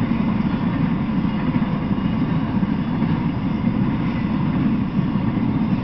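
Freight train cars rolling past on the rails, a steady, unbroken low noise of wheels on track.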